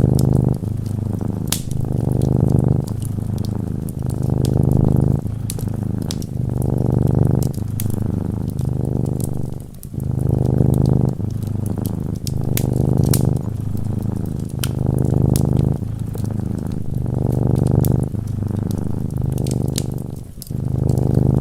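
Cat purring, a low rough rumble that swells and eases with each breath about every two seconds, over the light crackle of a fire.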